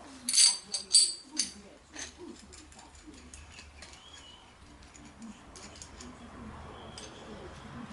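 Metal parts clinking together, about five ringing knocks in the first second and a half, then only faint low sounds.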